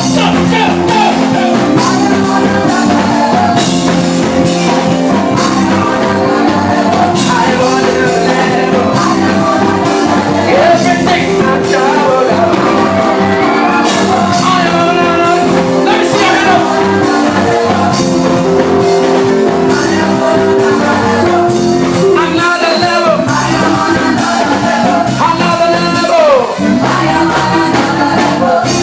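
Live gospel music: a band plays held chords under regular drum beats, with voices singing over it, most clearly near the end.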